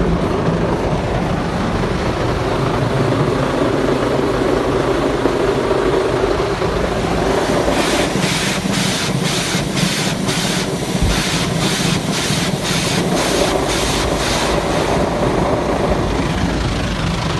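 Rotating brushes of a WashTec SoftCare 2 Pro automatic car wash working against the car, heard from inside the cabin as a steady churning rumble. From about eight seconds in, for some seven seconds, the brush strips slap the bodywork in a regular rhythm of about two hits a second.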